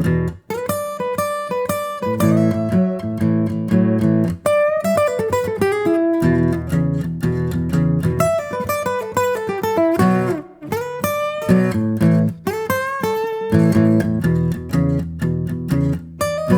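Instrumental acoustic guitar music: quick runs of plucked notes over low bass notes.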